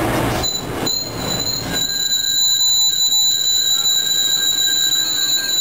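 MBTA commuter rail coaches rolling past close by, with a steady high-pitched wheel squeal that sets in about half a second in and holds, over the rumble of the cars, which thins a couple of seconds in.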